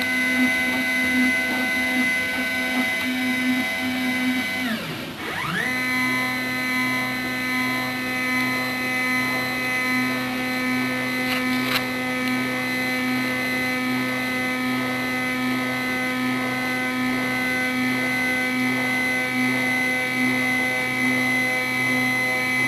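Stepper motors of a Sieg X2 CNC mini mill driving the axes to their home positions: a steady, multi-pitched motor whine. About five seconds in the pitch sweeps down, dips briefly and climbs back as the motion changes, then runs steady again.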